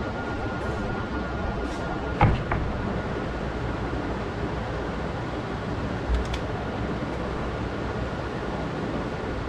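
Steady background rumble with a sharp knock about two seconds in, a smaller click just after, and a softer thump with light clicks around six seconds in.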